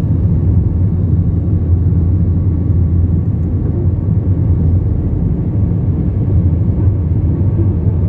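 Steady low rumble of a jet airliner's engines and airframe, heard from inside the passenger cabin.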